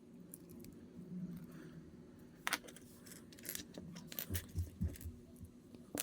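Small plastic building-kit pieces being handled and snapped together, giving a few scattered sharp clicks and some light rattling and low thuds.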